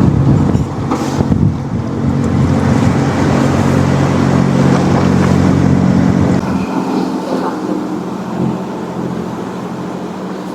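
Boat engine running steadily with a low hum, with wind on the microphone; the low engine note drops away sharply about six and a half seconds in.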